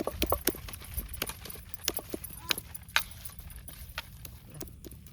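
Irregular clicks and light knocks of small objects being handled close to the microphone, over a steady low rumble; the clicks thin out near the end.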